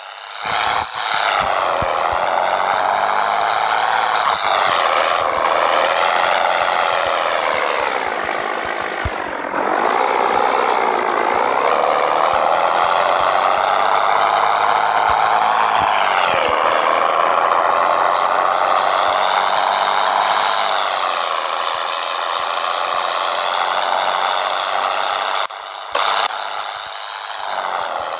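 Scania 113 truck's six-cylinder diesel engine pulling hard under load, its pitch climbing and then dropping at each gear change, about three shifts in the first half, then running on at a steady pitch.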